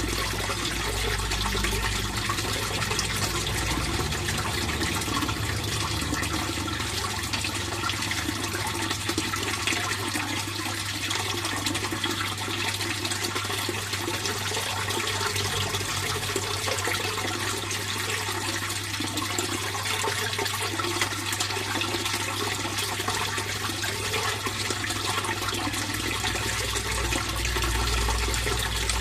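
Water flowing steadily in a fish pond, with a low steady hum underneath.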